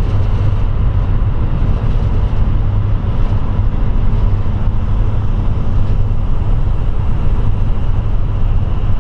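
Steady, loud low rumble of a running vehicle.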